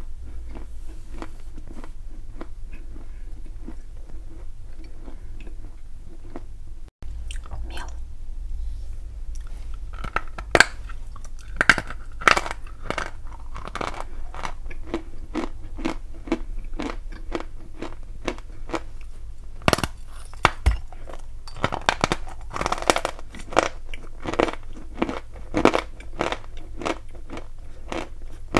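Close-up chewing of lumps of edible chalk and clay: soft mouth sounds at first, then from about ten seconds in a run of sharp, gritty crunches as pieces are bitten and chewed.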